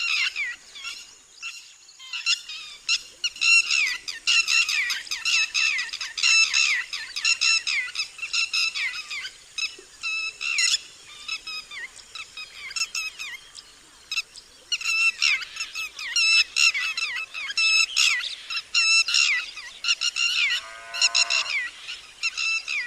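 Red-wattled lapwing giving its loud alarm call: quick series of sharp, shrill, downward-slurred notes, repeated in bursts with short pauses. A brief, lower call comes in near the end.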